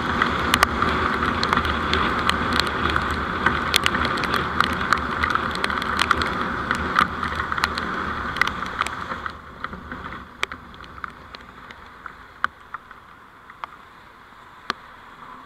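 Vehicle driving noise picked up by a dash camera: a steady rushing noise with many short sharp ticks through it. About nine seconds in it drops much quieter and the ticks thin out.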